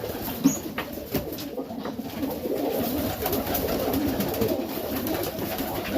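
Serbian Highflyer pigeons cooing together in a loft, a steady overlapping murmur of low coos, with a few sharp clicks in the first two seconds.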